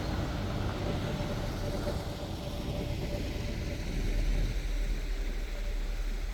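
Running engine and road noise from a moving bus in city traffic, with a low rumble that swells about four seconds in.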